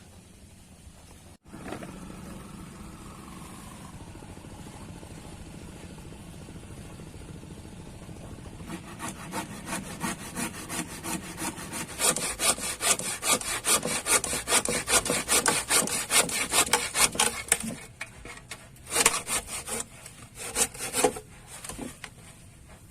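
Hand saw cutting with quick, regular back-and-forth strokes, which grow louder partway through, stop briefly, then resume for a few last strokes.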